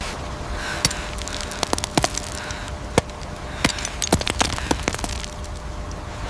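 Dense, irregular cracking and snapping over a steady rushing noise, which starts suddenly.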